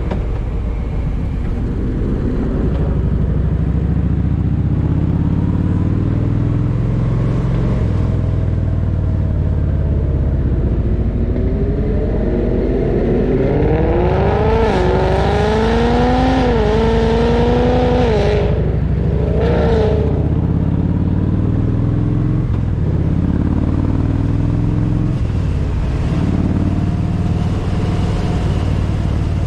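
Motorcycle engine running steadily at road speed with wind rush. From about 12 to 20 seconds in, an engine revs higher several times in quick steps, rising and dropping as if through gear changes, then settles back to a steady run.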